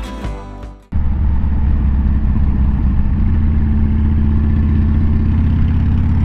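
Background music fading out, then, after a sudden cut about a second in, a motorcycle engine idling steadily with a fast, even low pulse.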